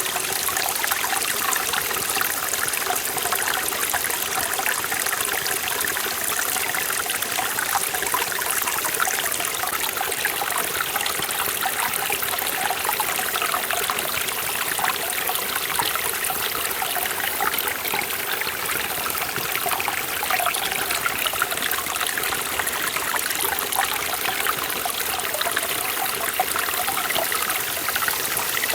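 Mountain stream in a forest valley, clear water running and splashing over rocks in a steady, unbroken rush.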